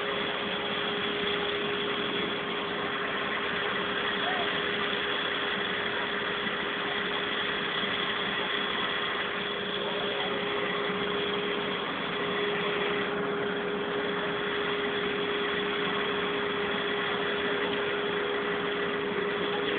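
A vehicle engine idling steadily, with a constant mid-pitched hum running through it.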